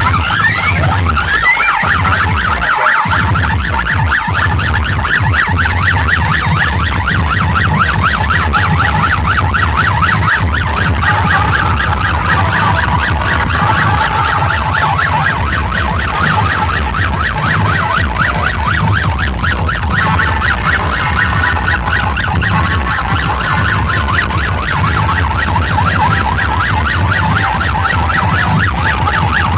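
Loud electronic DJ music with a steady pulsing bass and a fast-warbling siren effect over it, played on big sound-system rigs.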